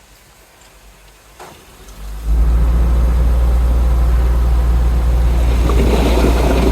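A heavy diesel engine of an earthmoving machine comes in suddenly about two seconds in and runs loud and steady with a deep drone; a clattering rattle joins near the end.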